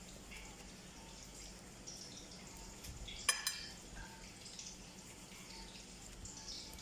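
A single sharp, ringing metallic clink of cookware or a utensil a little over three seconds in, over faint scattered ticking and crackle.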